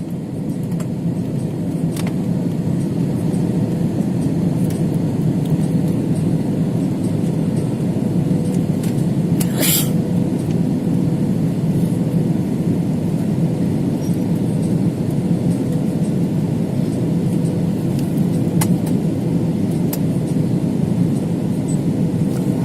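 Steady low rumble of an IndiGo airliner's cabin noise, engines and airflow, with a faint steady whine running through it. A brief hiss breaks in about ten seconds in.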